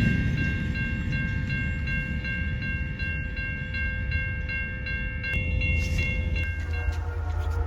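A train rumbling past while a railroad crossing bell rings rapidly and evenly, about three or four strokes a second. The bell's ringing changes near the end.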